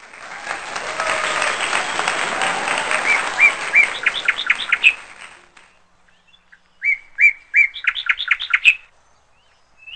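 A bird singing in runs of repeated sharp chirps that quicken, in two bouts; the first rides over a steady rushing noise and the second stands alone.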